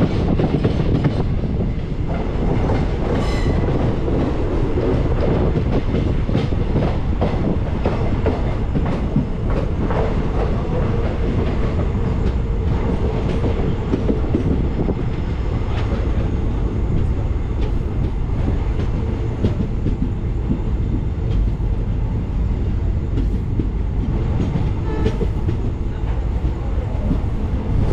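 Passenger train coaches running on the rails, heard from an open coach door: a steady rumble with rapid wheel clicks over rail joints as the train draws into a station.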